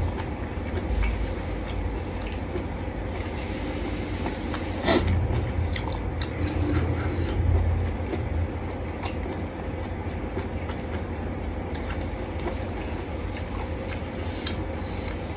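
A person chewing and eating, with a few sharp clicks, the loudest about five seconds in, over a steady low hum.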